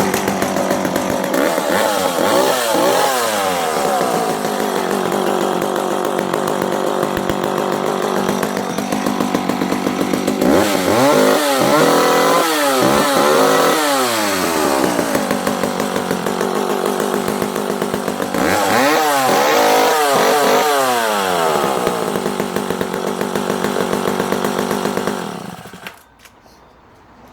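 Danarm 55 MKIII two-stroke chainsaw running, steady between three bouts of quick revving, each snapping up in pitch and dropping straight back down: great throttle response. It stops near the end.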